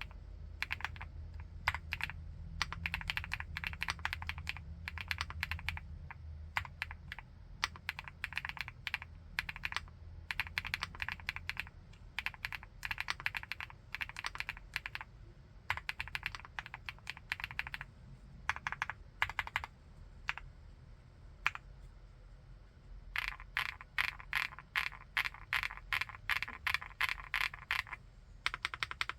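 Typing on a 75%-layout full-aluminium mechanical keyboard: quick runs of keystrokes with short pauses between them, a brief lull and then a faster burst near the end.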